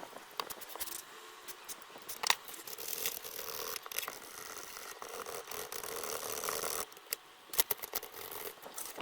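Workbench handling noises: scattered sharp clicks and taps, with a steady scraping rub from about three seconds in until about seven seconds.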